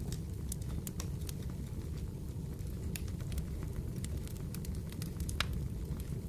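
Fireplace fire crackling: a steady low rumble of burning with scattered sharp pops and crackles, one louder pop about five seconds in.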